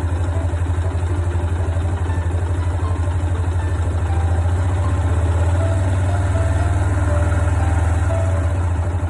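Honda FTR223's air-cooled single-cylinder four-stroke engine idling steadily, with a rapid even pulse, running again after ten years unused. The idle lifts slightly about four seconds in and settles again near the end.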